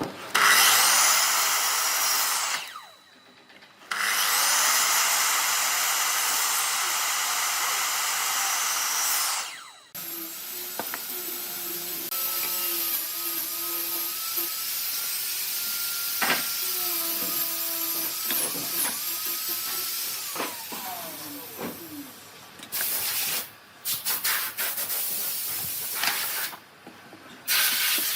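A power tool working wood. Its motor runs in two loud bursts of a few seconds each, then runs more lightly with a steady hum that winds down, followed by several short on-off bursts.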